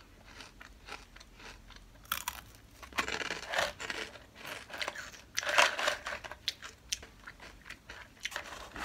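Close-up crunching and chewing of a crisp potato-chip snack: a string of uneven crunchy bites, the loudest about five and a half seconds in.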